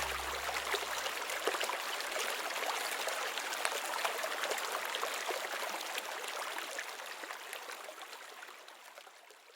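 Mountain stream running and babbling steadily, fading out over the last few seconds. The tail of background music dies away in the first two seconds.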